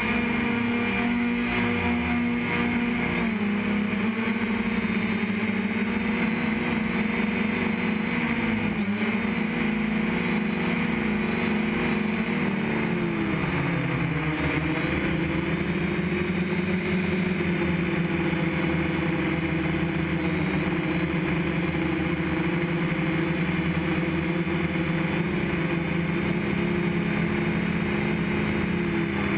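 DJI F550 hexacopter's motors and propellers whining steadily, the pitch dipping and recovering a few times as the throttle changes, then holding steadier through the second half.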